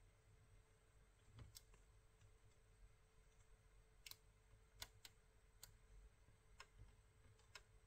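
Near silence: room tone with about eight faint, sharp clicks scattered irregularly through it, and a faint steady hum.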